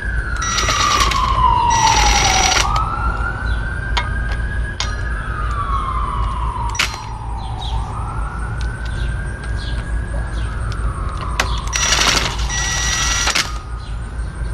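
An emergency vehicle's siren wailing, rising and falling slowly, a full cycle about every four to five seconds. Four short loud noisy bursts cut in, twice near the start and twice near the end, over a steady low rumble with a few sharp clicks.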